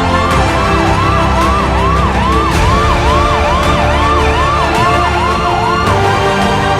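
Emergency vehicle siren sounding a fast yelp: repeated rising sweeps that drop back sharply, about three a second, over background music.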